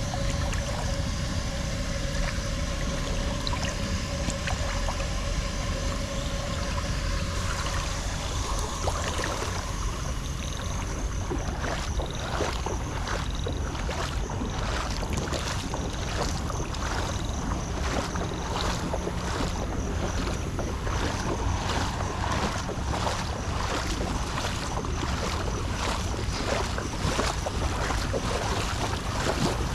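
Steady rush of floodwater with wind buffeting the microphone. From about ten seconds in, short sharp knocks repeat roughly twice a second.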